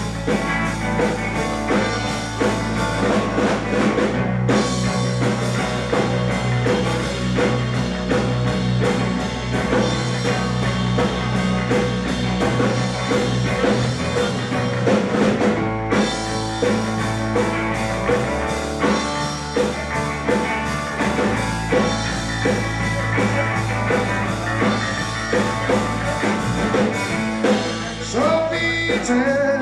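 Live rock band playing an instrumental break without lead vocals, drums keeping a steady beat under bass and guitar.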